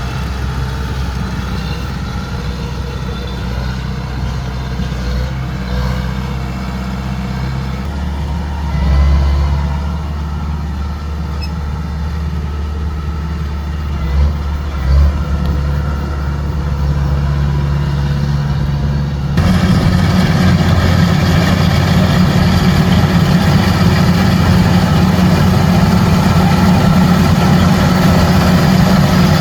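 Heavy diesel engine of harvesting machinery running steadily, its note shifting now and then. About two-thirds of the way in it cuts abruptly to a louder, rougher engine sound.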